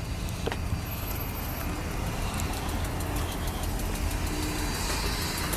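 Car engine running with a steady low rumble, slowly getting a little louder.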